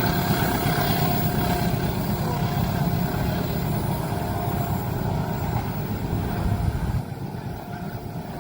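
Train running past a level crossing, a loud steady low rumble that drops off about seven seconds in.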